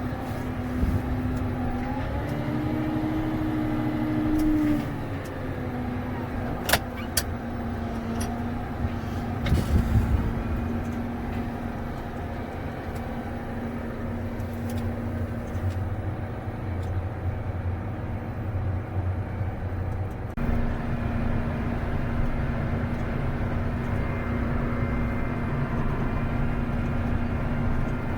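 John Deere 330G skid loader's diesel engine running steadily, its pitch rising briefly near the start. A couple of sharp clicks come about a quarter of the way in, and a short burst of knocks follows about a third of the way in.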